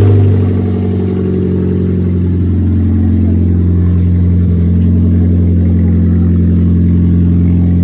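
Toyota Aqua hybrid's 1.5-litre petrol engine, swapped into a Toyota Vitz, idling steadily just after its first start, on a test run after the conversion.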